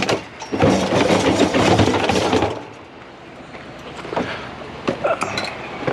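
Discarded plastic and metal junk clattering and rattling as it is shifted and pulled out of a pile by hand: a dense burst of knocks for about two seconds, then a few scattered clicks.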